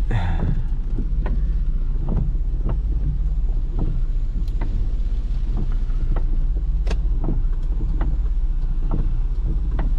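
Vehicle driving through deep flood water, heard from inside the cabin: a steady low rumble with scattered sharp ticks at irregular intervals.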